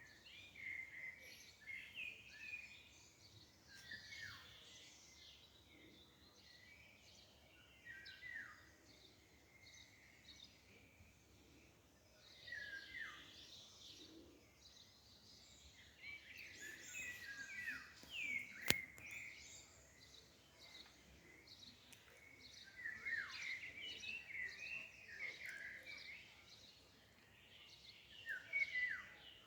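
Songbirds chirping and singing, many short notes with quick downward slides coming in clusters, over a faint outdoor hiss. A single sharp click about two-thirds of the way through.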